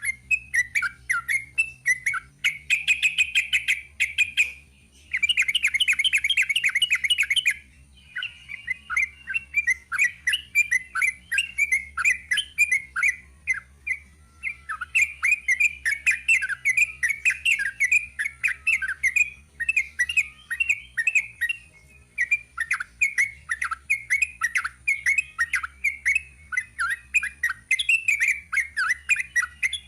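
Sooty-headed bulbul singing a long, rapid run of chattering notes, with two quicker trills in the first several seconds and only brief pauses.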